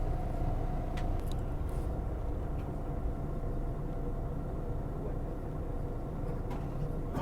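Steady low rumble of a vehicle, with a few faint ticks and no speech.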